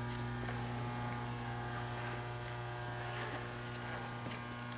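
A steady low hum with faint higher overtones, unchanging throughout.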